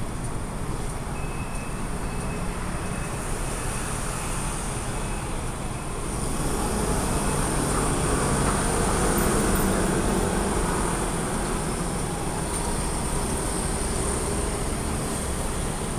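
Steady rumbling noise with a faint high whine, swelling louder about six seconds in and easing off a few seconds later.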